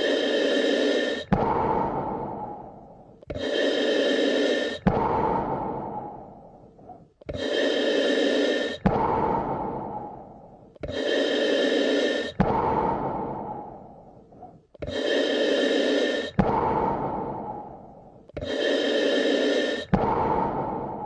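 A person breathing slowly and deeply in an even rhythm, about one full breath every four seconds. Each breath has a steady rush lasting about a second and a half that stops sharply, then a longer fading rush.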